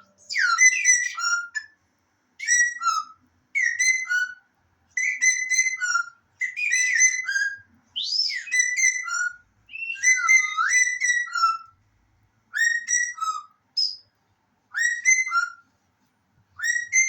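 Shrill whistling in short repeated phrases, about one every second or so. Each rises quickly to a held note and steps down at the end, and one sweeps higher about eight seconds in.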